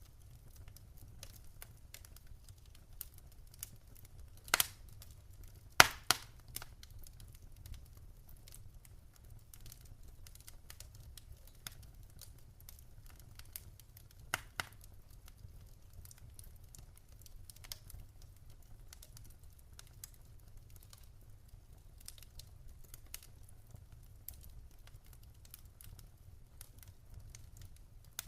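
Wood fire burning in a fireplace: irregular small crackles throughout, with two louder pops about four and a half and six seconds in, over a faint low steady rumble.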